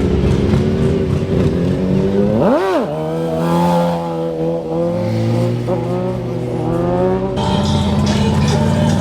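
Car engine running with one quick rev about two and a half seconds in, the pitch rising sharply and dropping back, then settling into a steady idle. Near the end the sound changes abruptly.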